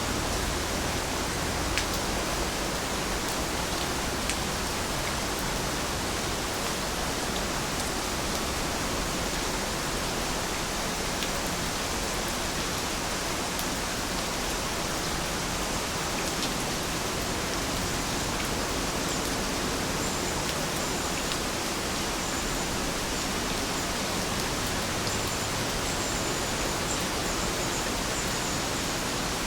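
Steady rain falling, an even hiss, with a few single louder drops ticking in the first few seconds.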